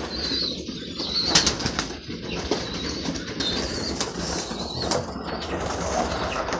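Pigeons flapping and fluttering their wings at close range as they crowd onto a person's hands and arms to feed, with several sharp wing claps, the loudest about a second and a half in.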